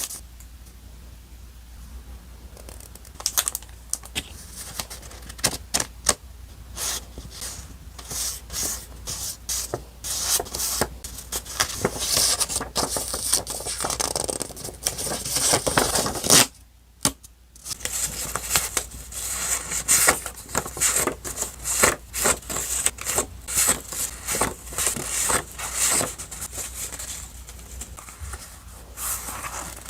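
Paper and stickers being handled: crinkling, rustling and light tapping and scraping, with dense irregular clicks and a brief drop-out for about a second just past the middle.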